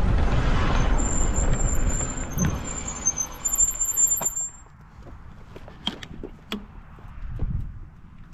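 Wind on the microphone and rolling noise from a folding e-bike, while its brakes give a high, wavering squeal for about three seconds as it slows to a stop. After that it is quieter, with a couple of sharp clicks.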